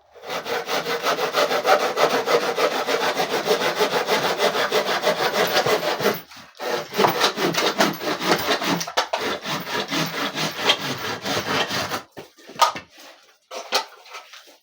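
Rapid back-and-forth rasping strokes of a hand tool on wood, pausing briefly about six seconds in. The stroking stops about twelve seconds in, followed by a few light knocks.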